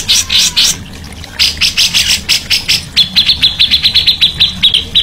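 Songbird calling in rapid harsh chattering notes, pausing briefly about a second in. From about three seconds in it breaks into a fast run of sharp, clipped high notes.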